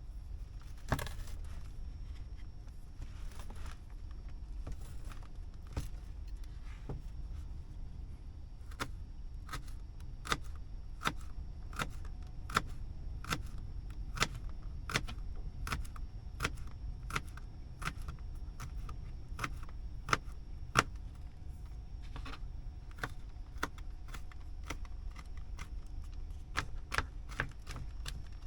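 Sharp clicks or knocks, about one to two a second for much of the time, over a steady low hum.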